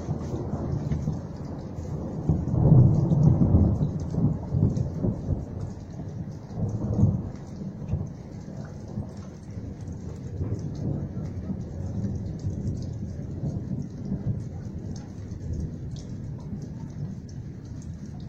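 Rain falling with low rolling thunder: the rumbles swell strongest about three seconds in and again about seven seconds in, then settle into a softer steady rumble under the rain.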